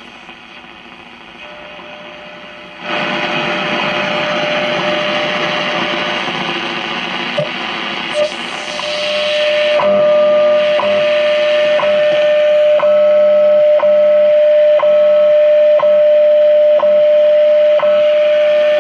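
Hallicrafters S-40B tube shortwave receiver tuned to the WWV time-signal station. Static hiss jumps up about three seconds in; from about halfway, WWV's steady tone comes through the hiss, broken by a tick once a second.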